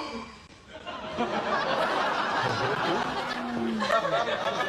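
Studio audience laughing, starting about a second in and carrying on steadily.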